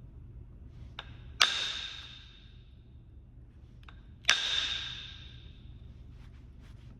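Flintknapping on Kentucky hornstone: two sharp percussion strikes, each ringing out with a clear tone that fades over about a second and a half. Each is preceded by a lighter tap.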